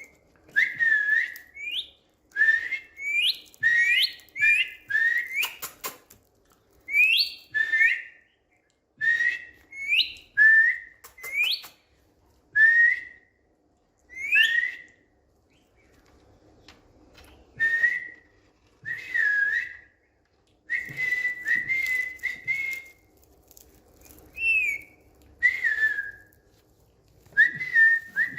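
Indian ringneck parakeet whistling: a long run of short whistled notes at about the same pitch, many with a quick slide up or down, with brief pauses between them and a longer pause about halfway through.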